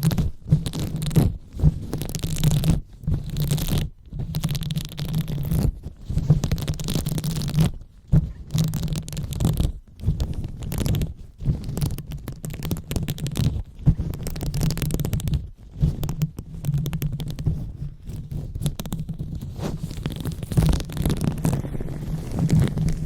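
Close-up ASMR 'brain massage': hands rubbing and scratching directly on the microphone, giving a muffled low rumble under a scratchy hiss. It comes in irregular strokes with brief pauses between them.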